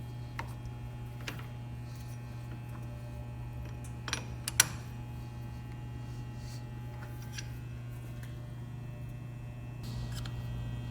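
Steady low electric hum, with two sharp clicks about four seconds in; the hum gets a little louder near the end.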